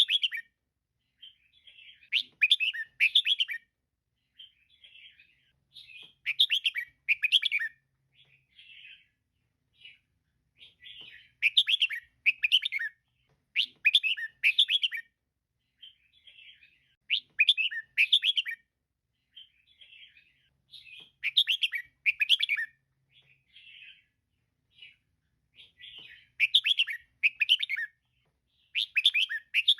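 Female red-whiskered bulbul calling: loud phrases of quick, chattering notes repeated every three to four seconds, with softer calls in between.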